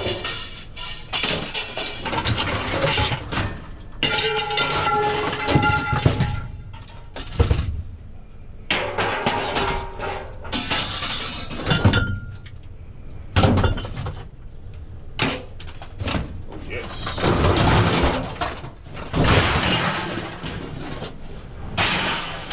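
Scrap steel and light iron being unloaded: an irregular run of metal crashes and clatters, some pieces ringing briefly.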